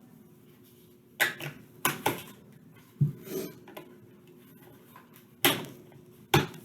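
Irregular sharp clicks and knocks of hard plastic and batteries being handled, about eight in all, the loudest two near the end: old AA batteries being taken out of a toy robot dog's battery compartment.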